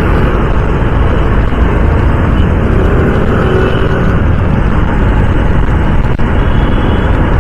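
Steady rush of wind and road noise while riding a Honda CD 110 motorcycle, loud and even, strongest in the low end.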